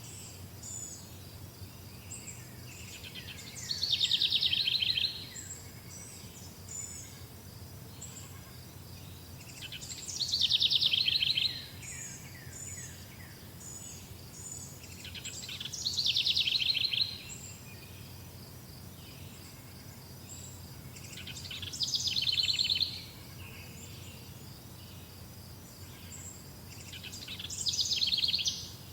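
Songbirds singing: one bird repeats a loud trilled phrase about every six seconds, five times, with fainter high chirps from other birds between its phrases and a steady low hum beneath.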